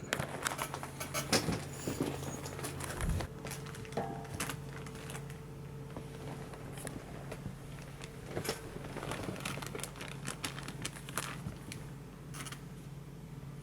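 Scattered light clicks, taps and rustles at irregular intervals over a steady low hum.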